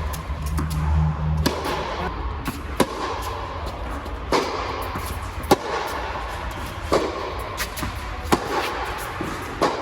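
Tennis ball struck back and forth by racquets in a baseline rally: sharp hits about every one and a half seconds, seven in all.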